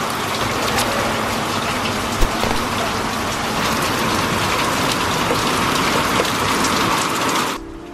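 Heavy downpour: dense, steady rain pattering and splashing on surfaces, with a single low thump about two seconds in. The rain cuts off suddenly just before the end.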